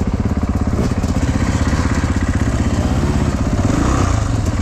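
Four-stroke 450 enduro motorcycle engine running at low revs on a rocky climb, close to the microphone, with the revs picking up briefly near the end.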